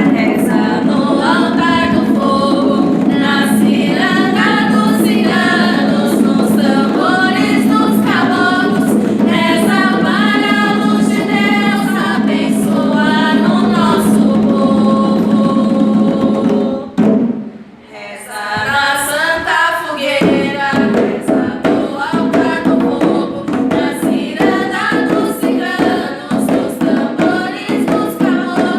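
A group of voices singing a folk bonfire prayer chant, with a steady low held note underneath. The singing breaks off briefly a little past the halfway point, then resumes.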